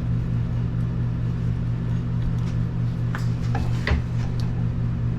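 A steady machine hum, with a few short clicks and scrapes over it.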